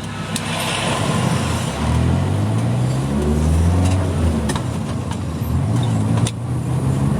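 Vehicle engine running while driving, its pitch rising, dropping and rising again as it accelerates through the gears, with road noise.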